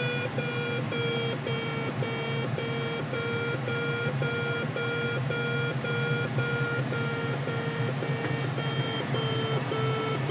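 A glider's audio variometer beeping rapidly, about three short beeps a second, over steady cockpit airflow noise; the fast beeping signals that the glider is climbing in lift.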